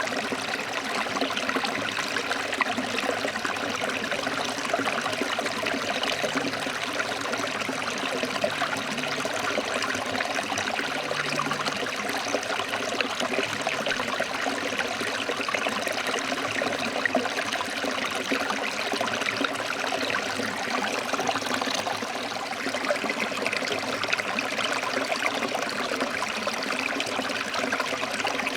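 Stream water flowing and splashing over rocks: a steady, even rush with fine trickling detail.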